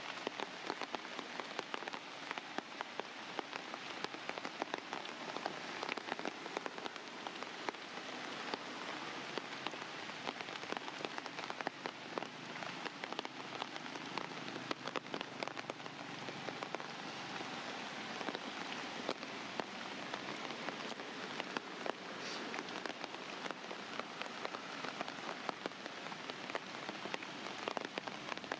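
Steady rain falling, with the many small, irregular ticks of individual drops striking a surface.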